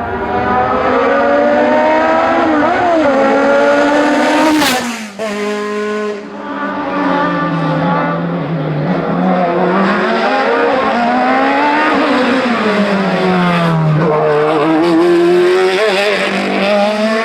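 Hillclimb race car's engine running hard, its revs climbing and dropping again and again through the gear changes, with a sharp crack about four and a half seconds in.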